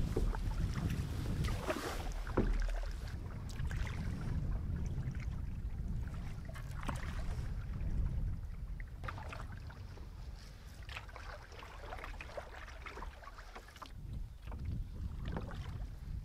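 Canoe paddling: paddle strokes dipping and splashing through the water every second or two, with low wind rumble on the microphone.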